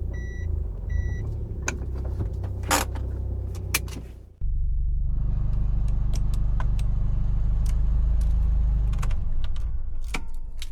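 Subaru Impreza WRX STI Spec C's turbocharged flat-four with an A-RM aftermarket exhaust, running at low speed with a steady low rumble. The rumble drops out abruptly for a moment about four seconds in, then resumes, with scattered sharp clicks and rattles throughout.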